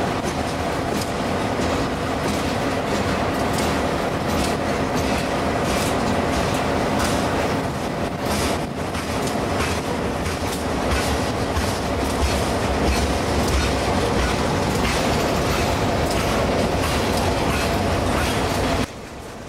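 Freight cars of a manifest train rolling past, their wheels clicking over rail joints over a steady rumble of wheels on rail. The sound drops away abruptly near the end.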